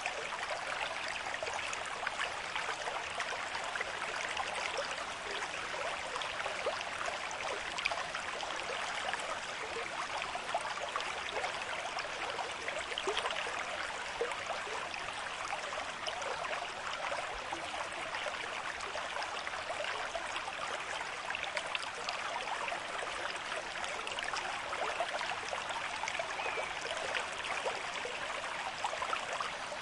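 Stream of moderate flow running over stones, a steady rushing with many small splashes and gurgles.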